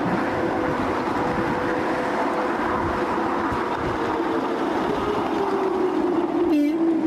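Talyllyn Railway coach running along 2 ft 3 in narrow-gauge track: a steady rumble of wheels on rail with a held humming tone, and a single sharp clank about six and a half seconds in.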